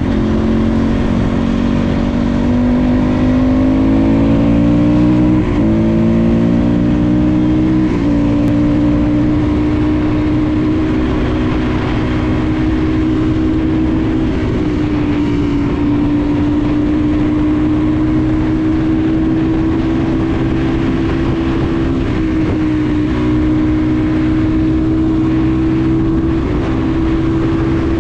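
Crossfire RM250 motorcycle's single-cylinder engine pulling up through the gears, its pitch climbing and dropping back at two upshifts, then holding a steady high pitch at cruising speed.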